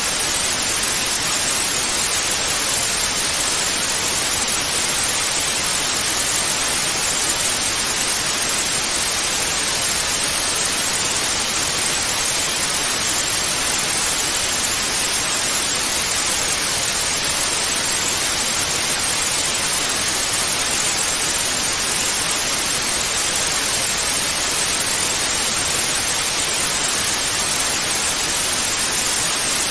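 Analogue television static, a steady, even hiss with no changes.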